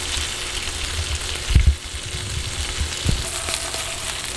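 Chicken breasts sizzling steadily in a dry nonstick frying pan, no oil added. A couple of low thumps come about a second and a half in and about three seconds in.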